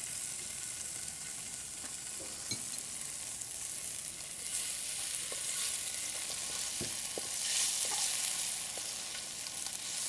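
Shallots and tofu frying in a little oil in a wok, a steady sizzle that swells twice, while a spatula stirs them with a few faint taps and scrapes.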